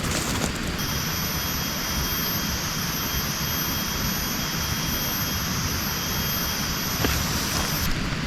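Steady heavy rain, with a high, even buzzing hiss that starts just under a second in and cuts off near the end.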